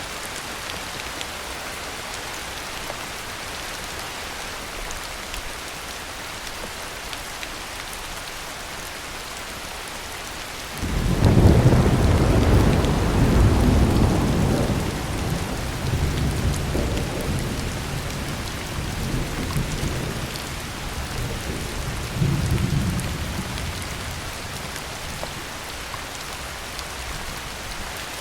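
Heavy rain falling steadily. About eleven seconds in, thunder breaks in suddenly and rolls on as a low rumble for over ten seconds, swelling again a few times before it fades back under the rain.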